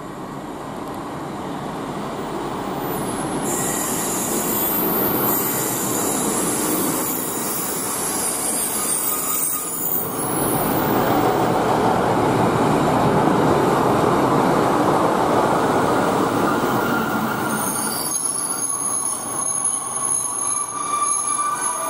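Trains at a station platform: a Class 150 Sprinter diesel unit approaching, growing louder over the first few seconds, with high-pitched wheel squeal on the rails from a few seconds in. After about ten seconds the sound turns to the steady rumble of a train running at the platform, and high squealing returns near the end.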